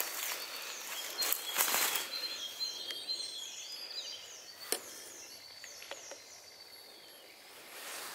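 Woodland birdsong: a rapid series of high, down-slurred notes repeated for a few seconds, with other thin whistled calls behind it. A few brief crackles are heard in the first two seconds and again near the middle.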